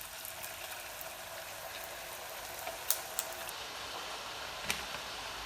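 Freshly dropped-in homemade potato fries sizzling steadily in hot oil in a pan, with a few sharp clicks a few seconds in.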